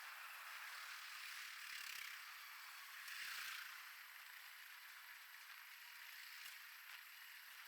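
Faint, steady rattle and hiss of a train's cars rolling past a level crossing, with a couple of soft knocks about two and three and a half seconds in.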